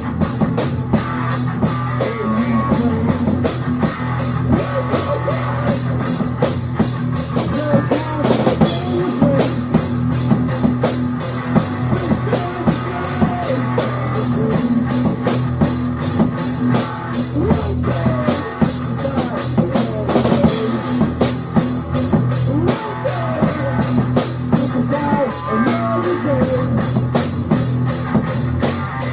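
Rock music led by a drum kit, with a fast, even run of cymbal strokes and steady low guitar or bass notes underneath.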